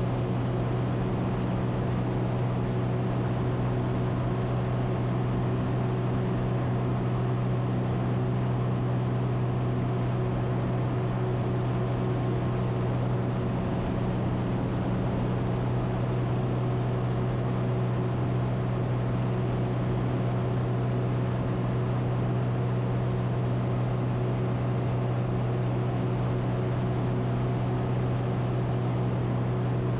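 Ikarus C42 light aircraft's engine and propeller heard from the cockpit in flight, a steady low drone at constant power with no change in pitch.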